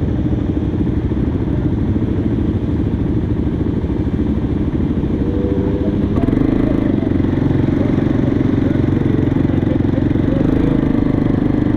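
Motorcycle engine running, getting louder and steadier about six seconds in.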